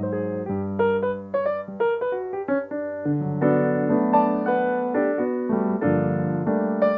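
Solo piano playing a flowing melody over sustained bass chords, many notes struck in quick succession.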